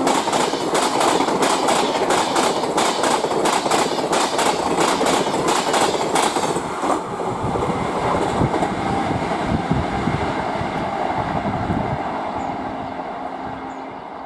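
Indian Railways express train passing at speed: a rapid clickety-clack of wheels over rail joints for about the first half, then the rumble of the coaches fading as the train moves away.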